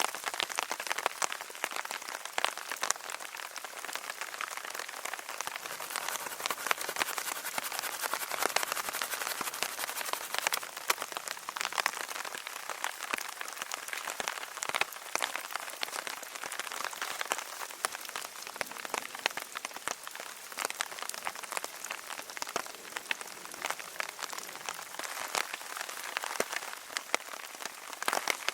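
Steady rain falling, with a dense patter of individual drops ticking as they hit.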